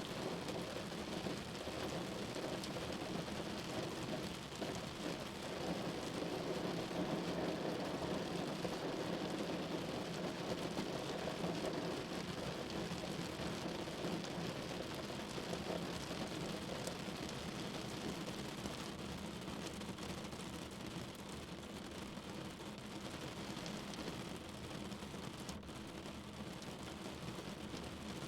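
Steady rain falling on surfaces.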